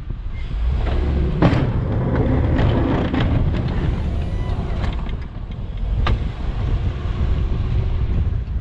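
Snowplow truck working: the engine runs steadily with wind buffeting the microphone. A loud knock comes about one and a half seconds in, followed by a few seconds of rough scraping, and a sharp click about six seconds in.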